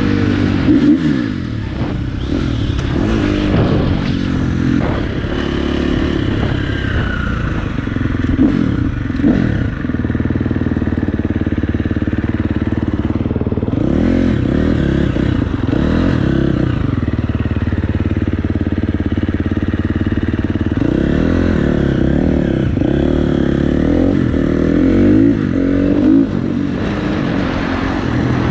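Dirt bike engine revving up and backing off again and again, its pitch rising and falling with the throttle, with a few steadier stretches between.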